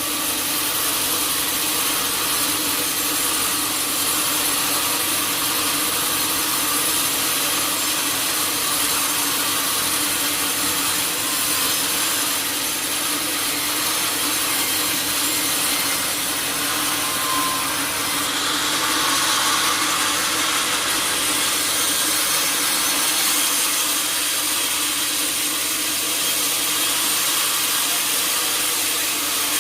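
Sawmill saw cutting through a teak log: a steady, continuous sawing noise that turns harsher for a few seconds about two-thirds of the way in.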